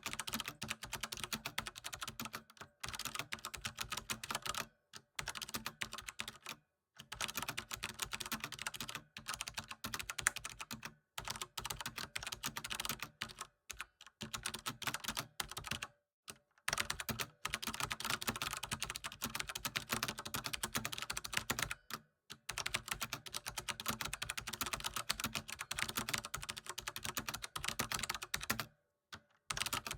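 Continuous typing on a computer keyboard: rapid runs of key clicks, broken every few seconds by brief pauses of silence.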